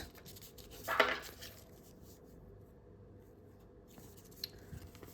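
A sheet of A4 paper being creased and handled: one short rasping rub about a second in, then faint rustles and small ticks near the end.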